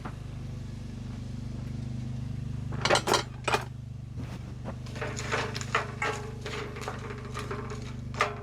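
A metal utensil scraping and knocking against a cooking pot: a few sharp strokes about three seconds in, then a quicker run of scrapes and knocks, some with a short ringing tone. A steady low hum runs underneath.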